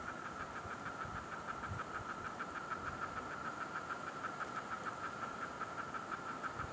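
An insect's steady, rapid pulsed trill, many pulses a second at one high pitch.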